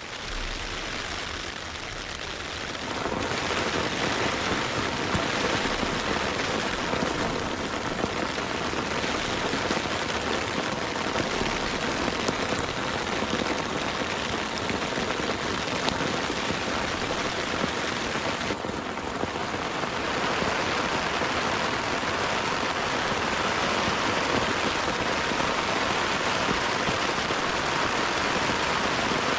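Heavy rain pouring steadily, growing louder about three seconds in.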